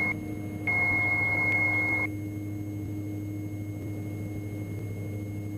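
Stall warning tone of a Diamond DA42 Twin Star sounding in the headsets during a power-on departure stall: a steady high beep that cuts out briefly, comes back, and stops about two seconds in as the wing is near the stall. Under it, the steady low hum of the engines heard through the intercom.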